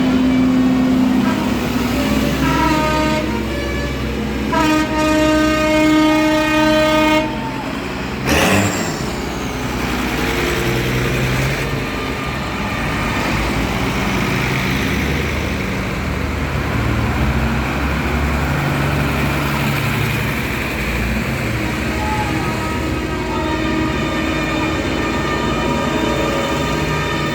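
Tractor engines running as the tractors pass, with horn blasts: a short toot about three seconds in, then a longer steady blast lasting about two seconds. A sudden sharp noise follows about eight seconds in, and the engines carry on running after it.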